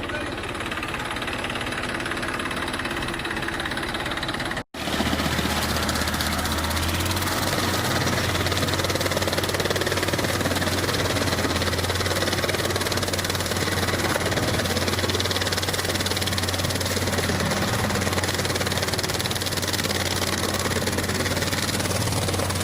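Massey Ferguson 241 tractor's diesel engine running steadily with a low drone. The sound cuts out for an instant about five seconds in, then the engine runs on at a steady speed.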